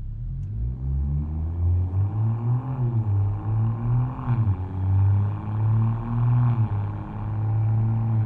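Exhaust of a BMW M240i's B58 3.0-litre turbocharged inline-six. Its pitch rises and falls several times as the car is driven, with engine speed dropping sharply a few times.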